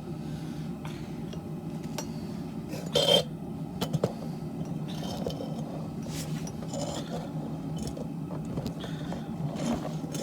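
Propane forge burner running with a steady low roar, while pieces of steel are scraped and knocked together as they are handled; the loudest is a sharp metal scrape about three seconds in.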